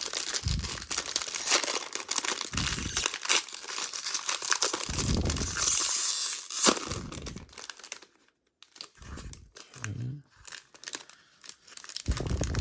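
Plastic or foil trading-card packaging being torn open and crinkled by hand, with irregular crackling and tearing. The crackling goes quiet briefly about two-thirds of the way through, then picks up again in smaller bits.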